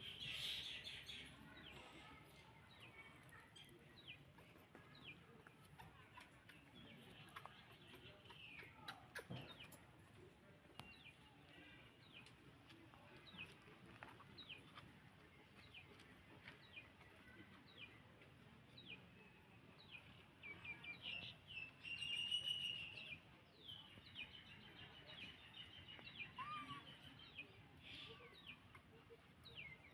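Faint, short, high-pitched animal chirps, each sliding downward, repeated every second or so, with a louder run of calls about 22 seconds in.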